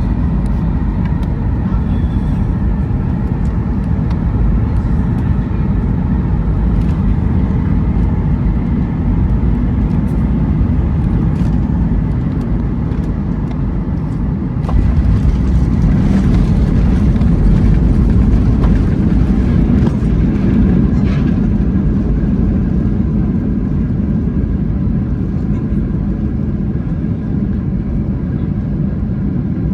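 Jet airliner cabin noise from a Southwest Airlines Boeing 737 on its descent into Phoenix: a steady low roar of engines and airflow. About halfway through it gets louder and rougher, then eases slightly.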